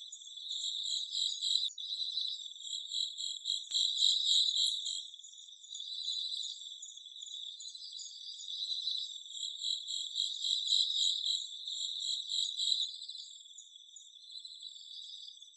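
Chorus of insects chirping: a dense, pulsing, high-pitched trill that swells and fades in loudness, with a couple of faint ticks in the first few seconds.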